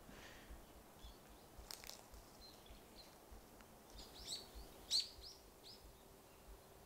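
Faint birdsong: a few short, high chirps, clustered about four to five seconds in, over quiet outdoor background. A faint click comes just under two seconds in.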